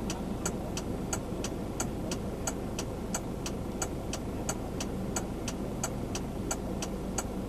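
Vehicle running with steady engine and road rumble heard from inside, with a sharp, regular ticking about three times a second over it.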